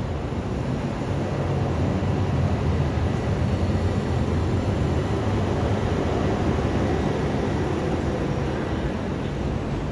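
Train moving through a station: a steady low rumble that swells slightly in the middle.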